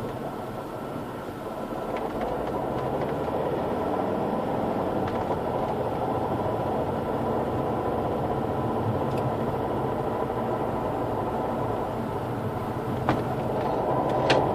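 Volvo V50 D5's five-cylinder turbodiesel running steadily, with a strange noise that the owner traces to the right side of the engine bay. A couple of sharp clicks come near the end.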